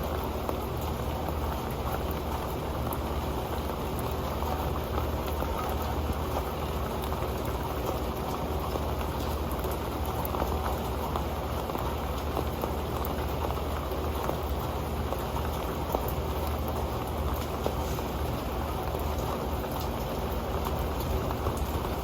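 Rain falling steadily onto an old metal pan, a dense even patter of drops with occasional sharper ticks.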